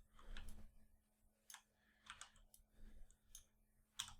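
Scattered computer mouse and keyboard clicks, about seven separate soft clicks, over a faint steady low hum.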